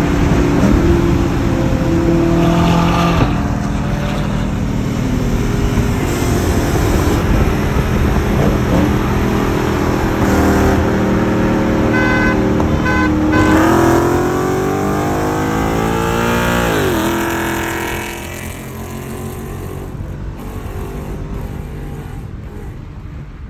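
Supercar engine running, then revving up in a long rising sweep about two thirds of the way in, which drops off sharply. It stays quieter afterwards. A few short beeps sound just before the rev.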